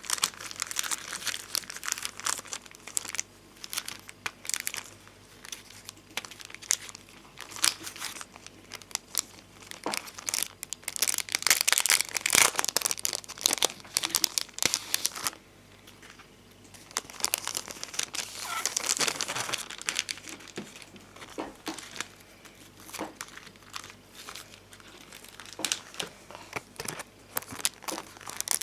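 Domed bonbon drop and ohajiki sticker sheets being handled and peeled: dense crinkling and crackling of plastic sticker sheets with many small clicks, growing louder for a few seconds near the middle and again a little later.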